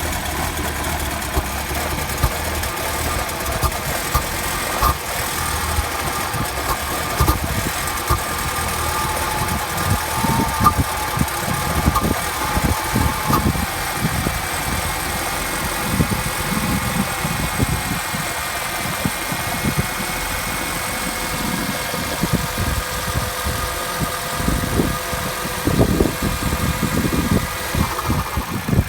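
Car engine idling steadily soon after a cold start.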